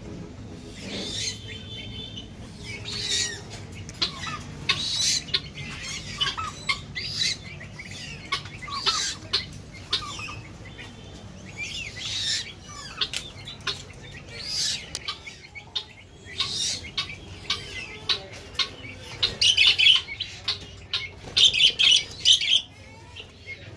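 A group of caged birds chirping and squawking in many short, quick calls, with sharp clicks among them; the calls get busier and louder in the last few seconds.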